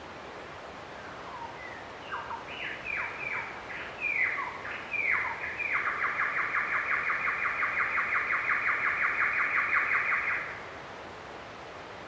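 A bird singing: a run of quick falling whistles, then a fast, even trill lasting about five seconds that stops abruptly, over a steady background hiss.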